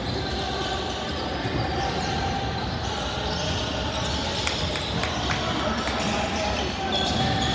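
Sounds of a basketball game: a ball bouncing on the court, with a few sharp knocks in the middle, over a steady background of voices.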